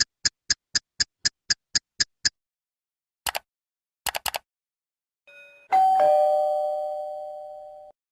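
A run of short sound effects: a quick series of about ten sharp clicks, about four a second, then a few brief clicking bursts, then a two-tone ding-dong doorbell chime. The chime strikes a high note, then a lower note, and rings out for about two seconds.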